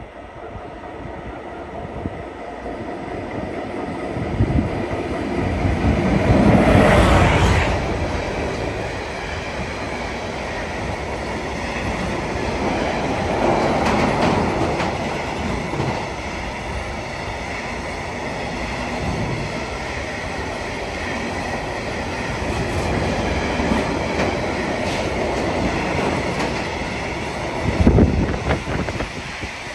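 A train moving through a station, with the wheels knocking over the rails throughout. It swells to its loudest about seven seconds in, and there is a sharp knock near the end.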